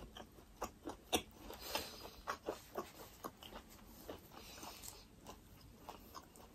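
Close-up chewing of a mouthful of food: soft, irregular wet mouth clicks and smacks, fading off toward the end.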